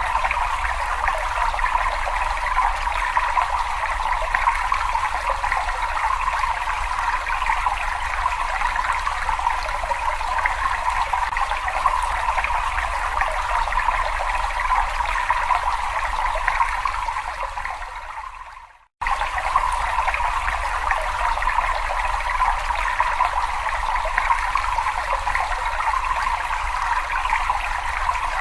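Water trickling and splashing steadily, a dense even rush. About two-thirds of the way through it fades out over a couple of seconds, goes silent for a moment, then cuts back in abruptly at full level.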